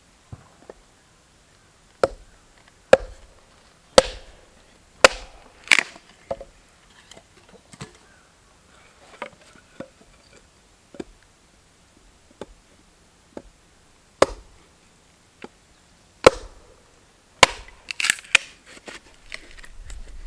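Wood being chopped with sharp single strikes about one a second, a few scattered strikes after a pause, then a quick flurry of lighter cracks near the end.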